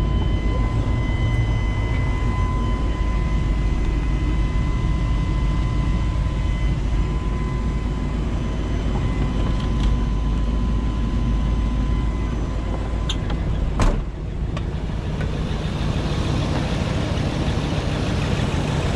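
Truck engine running steadily with a deep low rumble and a faint steady whine; a short knock comes about fourteen seconds in, after which the rumble changes and the whine is gone.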